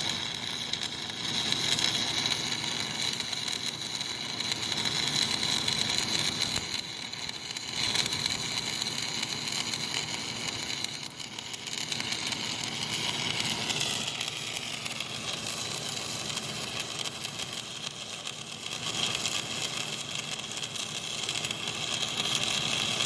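Stick-welding arc crackling steadily as a bead is run with a slight side-to-side weave. It goes briefly quieter twice, about seven and eleven seconds in.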